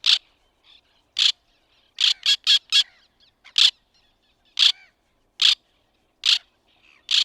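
White-winged tern giving short, harsh calls spaced about a second apart, with a quick run of four about two seconds in.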